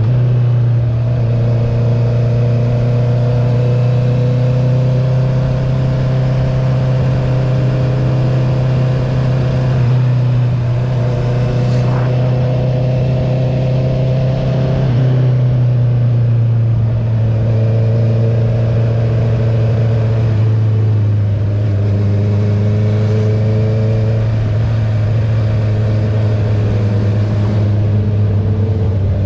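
A 2021 Honda CB650R's inline-four engine, fitted with an Akrapovic titanium full-system racing exhaust with the dB killer removed, running at a steady cruise. The revs drop right at the start and then hold, easing slightly about halfway through.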